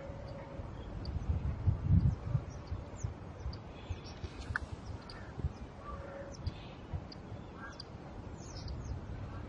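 Wild birds in the background calling with many scattered short, high chirps and a few lower calls, over a low rumble that swells about two seconds in.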